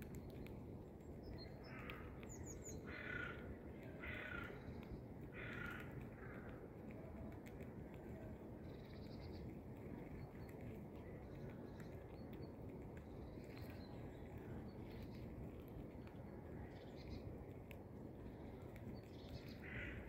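Bird calls: four short calls in the first six seconds and two more near the end, over a steady low background rumble.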